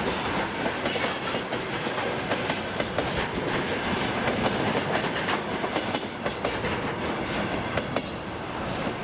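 Freight train wagons rolling past, wheels clattering steadily over the rail joints.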